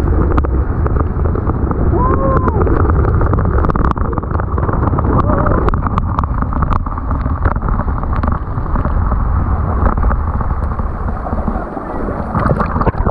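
Steady rush of water with wind buffeting the microphone.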